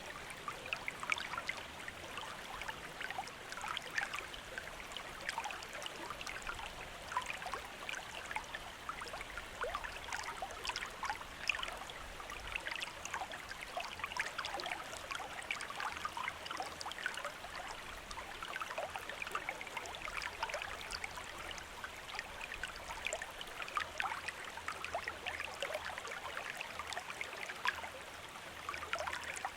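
Shallow stream or river running over stones, a steady burble flecked with many small splashes and trickles.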